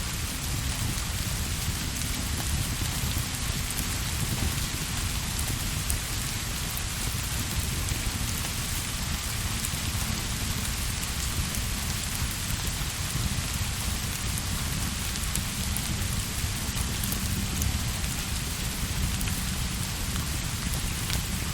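Steady rain, an even hiss with a constant low rumble underneath and a few faint ticks.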